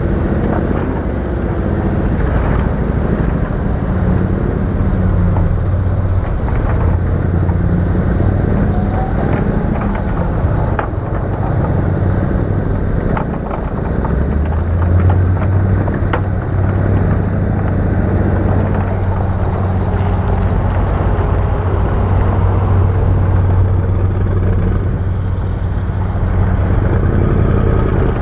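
Heavy diesel earthmoving machinery running steadily, its low engine note growing heavier about halfway through, with a few sharp knocks.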